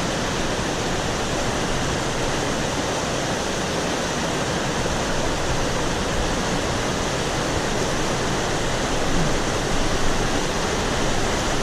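Rushing water of a small river swollen by monsoon flood: a steady, even rush with no breaks.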